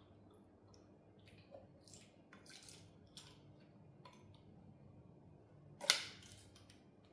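Workshop handling noises: scattered small clicks and scrapes of tools and parts being handled during engine disassembly, with one sharp, loud click about six seconds in.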